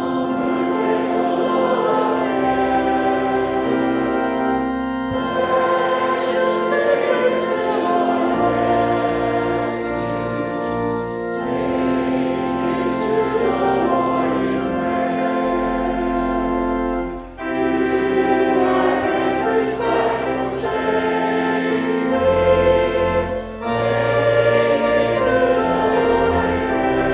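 Choir singing a hymn with organ accompaniment, in sustained chords and phrases with a brief pause about two-thirds of the way through.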